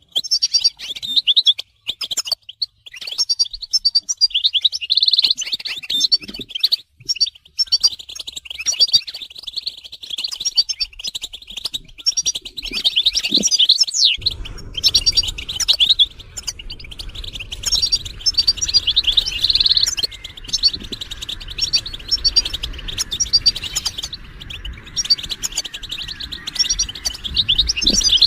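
European goldfinches twittering and calling, a dense stream of quick high chirps and trills with short pauses in the first few seconds. About halfway through a low steady hum joins underneath.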